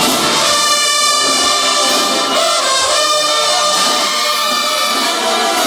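Marching band brass section playing loud, sustained chords, trumpets and trombones to the fore.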